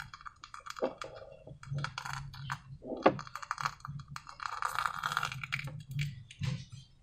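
Slime being worked by hand: irregular sticky clicks and crackles in short clusters.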